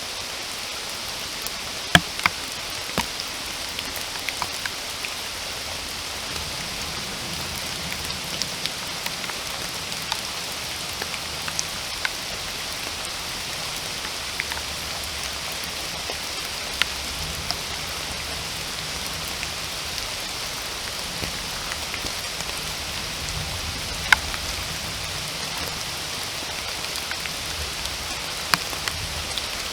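Steady rain falling, with many scattered single drops tapping close by; the sharpest come about two seconds in and again near twenty-four seconds.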